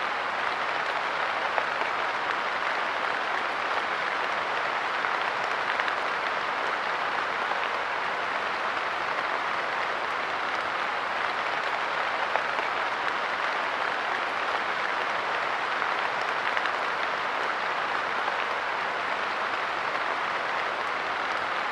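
Light rain falling steadily on a park bench, a dense even patter with a few slightly louder drops landing here and there.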